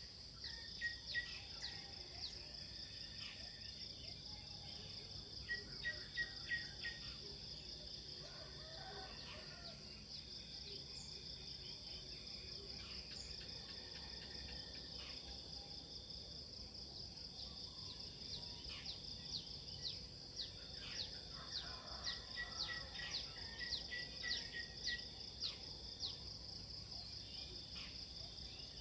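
Steady, high chorus of crickets or similar insects, with birds calling over it: many short falling chirps, and a few quick runs of repeated notes near the start, about six seconds in, and again around twenty-two to twenty-five seconds.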